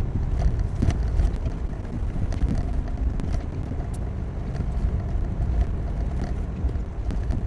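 Gusty wind buffeting the microphone during a snowstorm: a loud, uneven low rumble that rises and falls.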